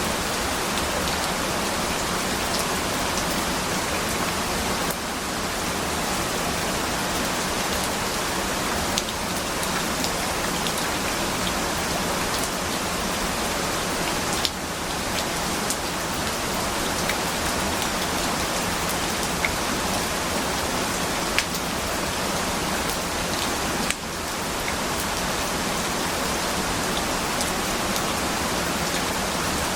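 Steady rain falling: a dense, even hiss with scattered single drops ticking through it. The level dips briefly a few times.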